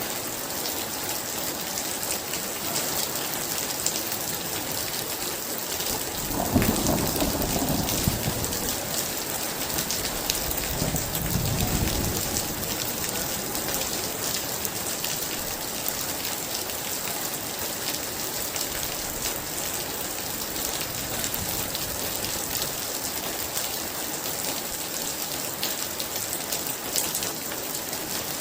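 Very heavy rain falling steadily, with a clap of thunder about six seconds in that rolls into a low rumble, then a second rumble a few seconds later.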